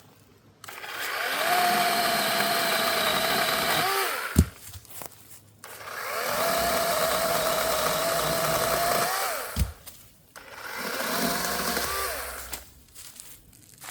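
Battery-powered DeWalt 20V Max compact 12-inch cordless chainsaw run three times on wood, its electric motor and chain whining up to speed, holding a steady pitch, then winding down. A sharp thump comes right after each of the first two runs.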